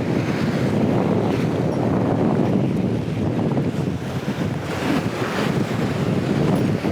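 Strong wind buffeting the microphone in steady low rumbling gusts, with surf washing against the shore underneath.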